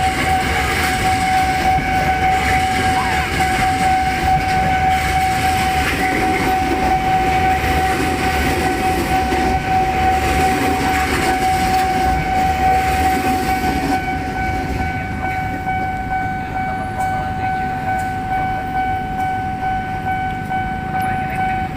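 Train running through the station: a dense rumble of wagons with a steady high-pitched tone held over it, which stops suddenly near the end as the rumble eases.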